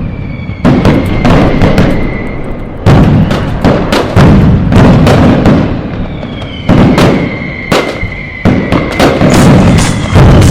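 Firecrackers going off in a rapid, overlapping string of loud bangs, each with a low rumbling tail. A high, steady whistle sounds under the blasts during the first two seconds and again from about six and a half to ten seconds in.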